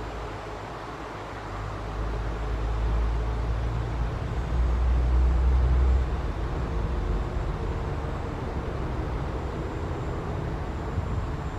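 Low rumble of an approaching EP20 electric locomotive and its passenger train, mixed with wind buffeting the microphone; it swells a few seconds in and eases off again.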